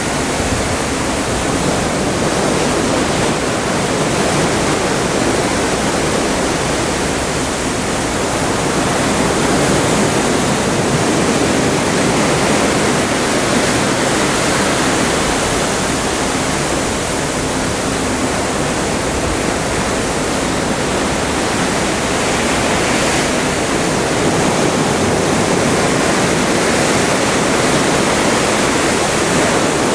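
Open Atlantic seawater rushing and churning steadily past the hull of a moving cruise ship, a continuous loud hiss that swells and eases slightly.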